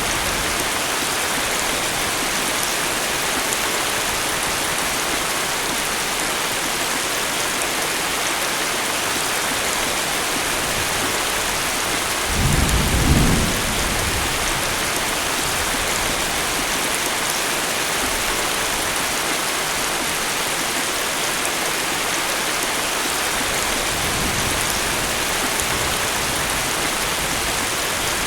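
Heavy tropical rain falling steadily, with a loud thunderclap rumbling for about two seconds near the middle and a fainter low roll of thunder later on.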